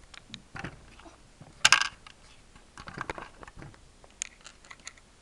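Small plastic toy pieces clicking and clattering as they are handled and set down, with one louder clack about a second and a half in and a flurry of taps a little later.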